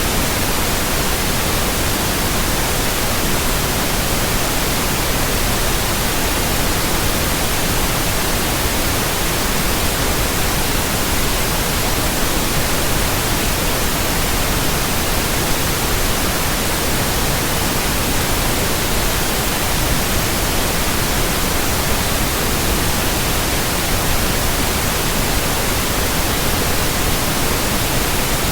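Steady white noise: an even, unchanging hiss spread across the whole range of pitch, with no tones or events in it.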